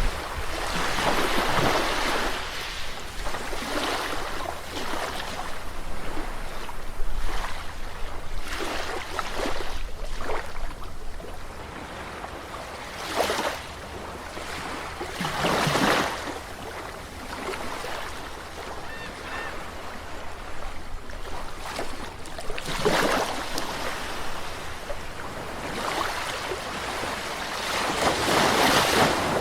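Sea waves breaking and washing on a shore, each wave a surge of rushing noise every few seconds with quieter wash between.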